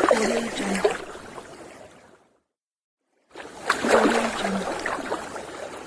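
Water splash sound effect, heard twice: two matching splashes about three seconds apart, each starting sharply and fading out over about two seconds.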